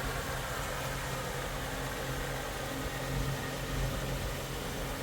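A steady low mechanical hum under a constant hiss.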